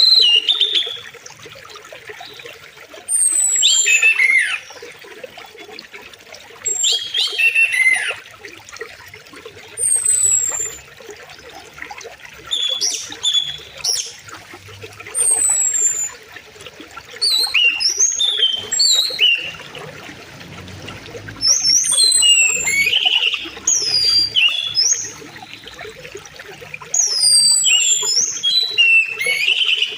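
Wild birds singing in short bouts every few seconds, with high falling whistles and busier chirping phrases, over the faint steady rush of a flowing river.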